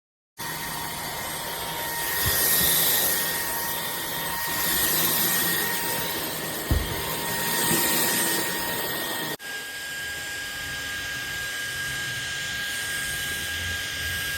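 Iirios cordless stick vacuum running: a steady motor rush with a thin high whine, swelling and easing in loudness every two to three seconds, with one sharp knock a little past the middle. About nine seconds in it cuts to another stretch of running where the whine sits slightly lower.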